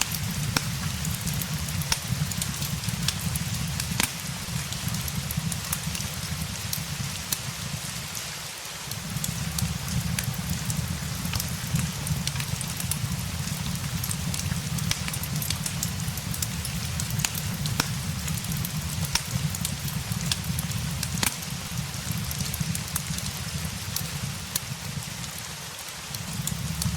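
Steady rain hissing, mixed with the scattered sharp pops and crackles of a wood fire in a fireplace. A low rumble underneath drops out briefly twice, about a third of the way in and near the end.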